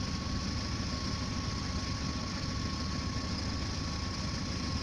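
Car engine idling steadily, a low even rumble with a thin steady whine over it.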